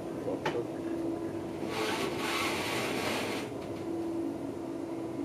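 Deutsche Bahn Intercity train running, heard from inside the coach: a steady low rumble with a hum, a single click about half a second in, and a hiss lasting nearly two seconds from about two seconds in.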